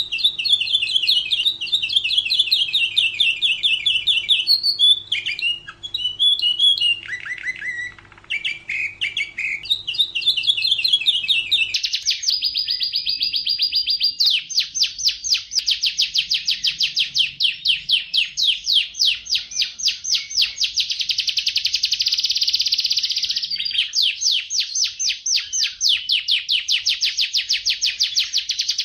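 Domestic canary singing continuously in rapid trilled phrases of repeated notes, switching from one phrase to the next. About twelve seconds in, the recording changes abruptly to a long, very fast, even trill that runs on.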